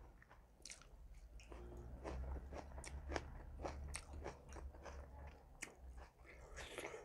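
A man chewing a mouthful of chicken and pulao rice eaten by hand, with many short, soft mouth clicks and smacks.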